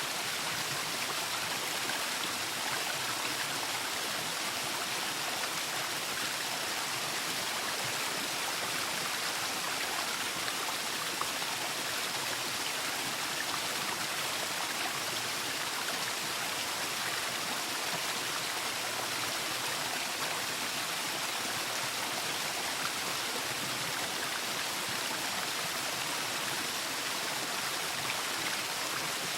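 Waterfall: water falling and splashing in a steady, unbroken rush with a hissy, fairly high character.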